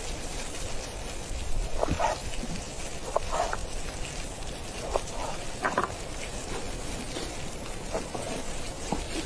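Wood fire crackling with scattered sharp pops over a steady hiss of wind.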